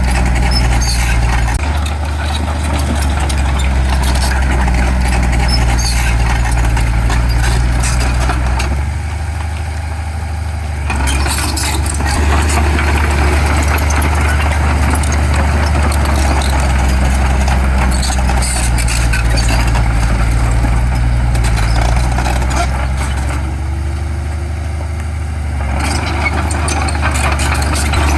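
Heavy diesel engine of earthmoving machinery running under changing load, its speed stepping up and down and easing off twice, with scattered clatter over it.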